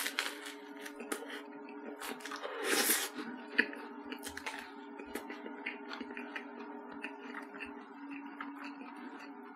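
Close-up eating sounds of a crusty baguette sandwich with bacon and sausage: small crackles and clicks of chewing, with a louder crunch about three seconds in.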